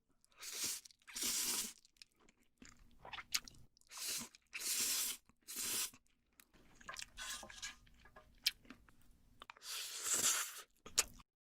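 Close-miked eating sounds of spicy fire noodles being chewed and slurped, in separate wet, noisy bursts about one a second.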